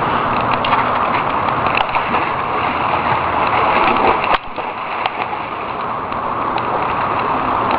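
Water splashing and sloshing steadily in a shallow pool, with a few sharper splashes.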